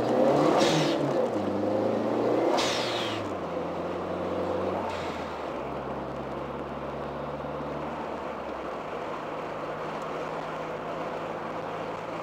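1987 Dodge Daytona Shelby Z's turbocharged 2.2-litre four-cylinder pulling, with its aftermarket blow-off valve letting go in a sharp hiss twice in the first three seconds and faintly once more around five seconds in as the throttle is lifted. After that the engine runs steadily and more quietly at light throttle.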